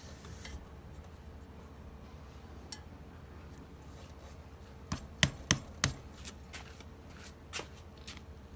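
Four sharp clicks or taps in quick succession about five seconds in, and one more a little later, over a faint steady hum.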